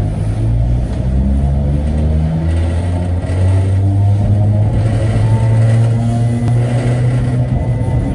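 Running noise heard from inside the cab of a Sangi Railway Hokusei Line narrow-gauge electric train: a steady low hum from the motors and wheels with shifting mid tones and a faint high whine.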